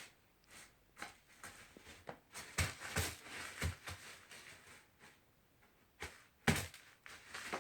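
Cat litter scraping and rustling in irregular short strokes, with a cluster of strokes about two and a half seconds in and the loudest one near the end.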